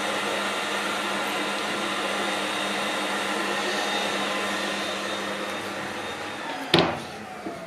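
Steady whirr of an electric motor running, easing off slightly near the end, with one sharp knock just before it drops away.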